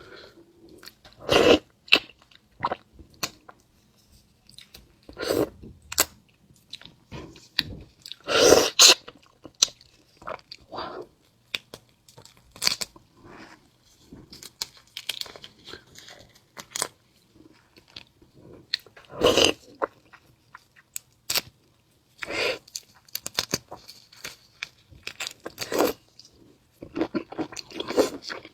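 Close-miked chewing and biting of marinated raw red shrimp, with wet crunches coming in irregular bursts separated by short pauses.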